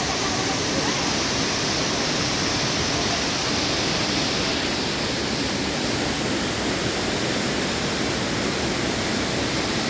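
Waterfall pouring and splashing: a steady, unbroken rush of falling water.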